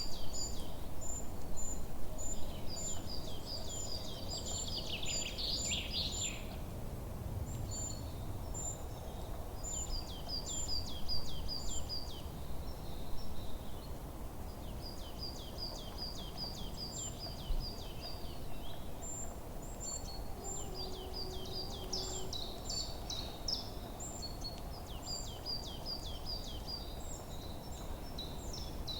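Several songbirds singing in a forest, with short high chirps and trilled phrases repeated again and again, over a steady low background rumble.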